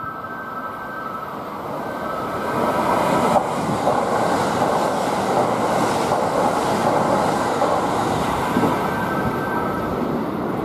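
Kintetsu 80000 series Hinotori limited express passing through the station at high speed without stopping. Rushing wheel-and-rail noise builds from about two seconds in, with a sharp knock at about three and a half seconds, holds while the train goes by and then eases off as it clears the platform.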